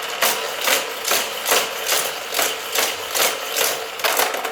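Battery-powered motor of a Hot Wheels track set running, with a regular clatter about two and a half times a second.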